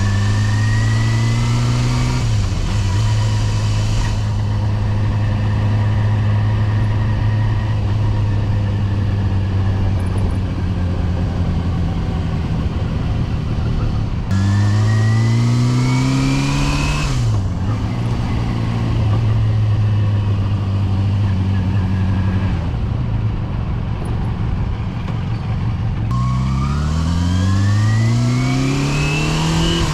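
Yamaha FZR250 (2KR) motorcycle's four-cylinder engine under way. It revs up and drops at a gear change about two seconds in, holds steady revs, pulls up again with another gear change around seventeen seconds, and climbs through the revs once more near the end.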